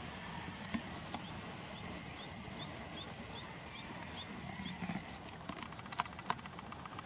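A bird calling a quick series of about seven short, high, rising chirps, roughly three a second, over a steady low background rush, with a few sharp clicks near the end.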